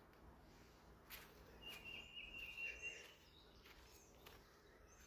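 Faint bird calls: one steady, high, held note lasting a little over a second, with a few short rising chirps scattered around it.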